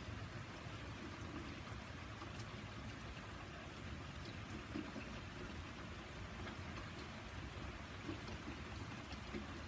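Steady rain falling on a garden and paved path, with a few sharp drip ticks scattered through it.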